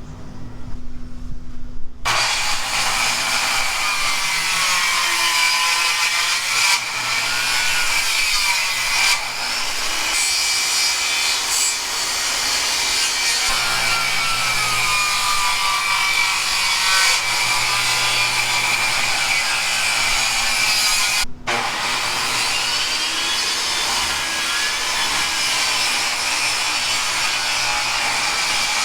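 Electric power saw cutting wood. It starts about 2 s in and runs steadily, its whine wavering as it bites. It stops briefly about 21 s in and starts again.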